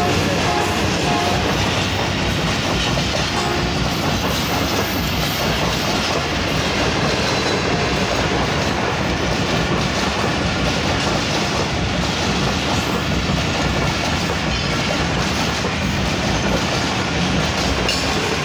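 Passenger coaches of an express train running past on the track: a loud, steady rumble of steel wheels on the rails.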